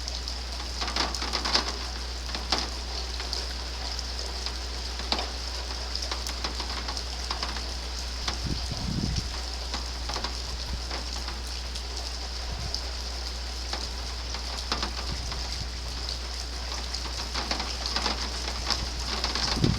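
Steady rain, with many separate drops ticking sharply over a continuous hiss, during a thunderstorm. A steady low hum runs underneath, and a brief low rumble comes a little before the middle.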